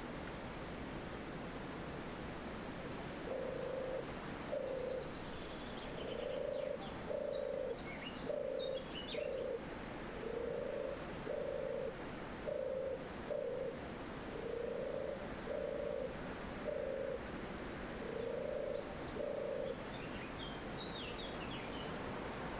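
A dove giving a long series of low, soft coos, mostly in pairs, over a steady rush of wind through trees; a small bird chirps briefly a few times higher up.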